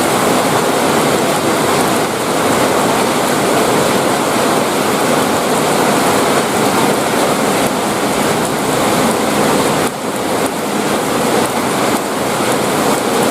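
Heavy rain pouring down in a steady, dense hiss, with a brief dip in loudness about ten seconds in.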